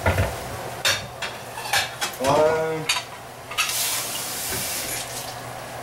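Food sizzling in a hot pan, with three sharp clinks of kitchenware and a brief louder hiss a little past halfway.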